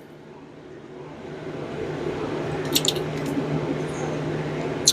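Handling noise from work on the engine as the valve cover goes back on: a few light clicks midway and one sharp click near the end, over a steady low hum.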